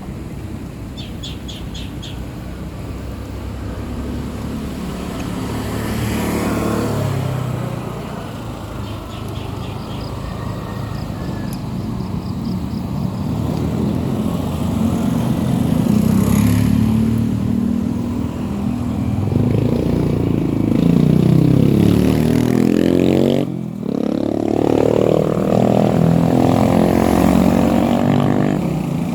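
Motorcycle engine running under way, its pitch rising and falling with the revs and getting louder in the second half, with a brief dip and pick-up a few seconds before the end.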